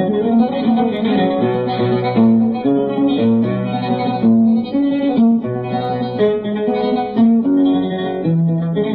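Oud playing a solo melodic passage, a quick run of single plucked notes.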